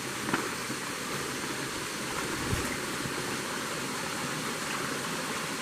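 Small forest river flowing: a steady, even rush of running water.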